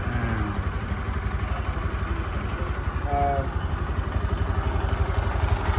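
An engine idling steadily, a low, even throb of several beats a second.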